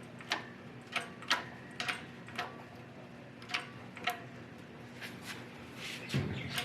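Sharp metal clicks at irregular intervals, about ten of them, over a faint steady hum, from working a hydraulic shop press and bearing splitter to push the bearing off a differential pinion.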